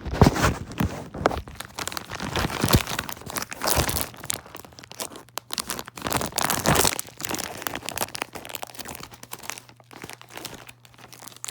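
Packaging being handled during unboxing, crinkling and tearing in irregular rustles and crackles as a box is dug through by hand.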